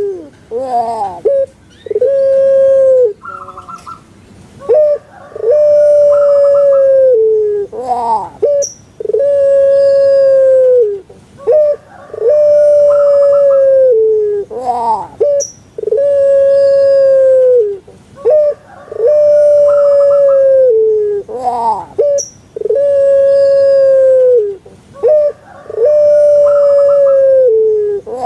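Puter pelung (Barbary dove, Streptopelia risoria) singing its long coo over and over. Each phrase is a cluster of quick falling notes followed by long held coos of one to two seconds each, and the phrase comes round about every seven seconds.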